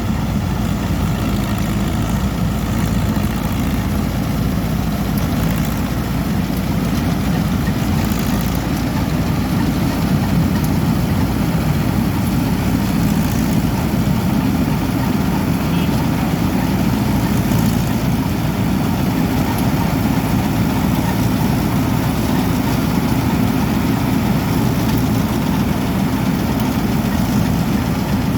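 Heavy diesel farm machinery engine running steadily at a constant speed, a low, even drone with no change in revs.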